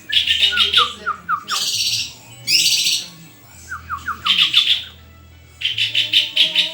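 A murai songbird singing: loud phrases of fast, rattling trills alternate with runs of four or five short down-slurred whistles and a couple of harsh, buzzy notes, with brief pauses between phrases.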